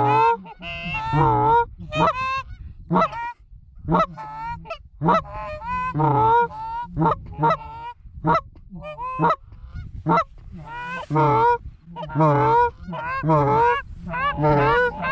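Canada goose honking and clucking: a fast, irregular string of loud honks, one or two a second, thickening into overlapping bursts in the second half.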